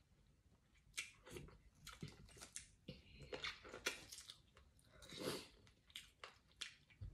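Faint close-up eating sounds: a person chewing a mouthful of chicken soup and rice, with an irregular run of short wet smacks and clicks and one longer wet sound about five seconds in.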